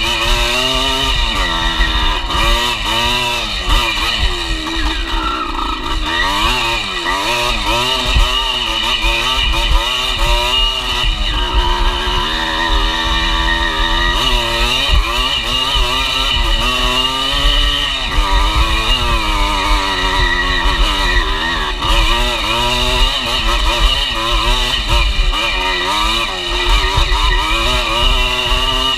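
Enduro dirt bike engine revving up and down continuously as the rider works the throttle along a rough dirt trail, the pitch rising and falling every second or two.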